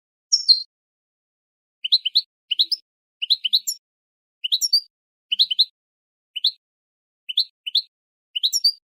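Goldfinch × linnet hybrid twittering: short phrases of two to four quick, high, upward-sweeping chirps, one phrase about half a second in and then a phrase roughly every second from about two seconds in.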